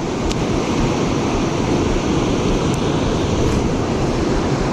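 Steady rushing noise of river water and wind buffeting the microphone, with no clear single event.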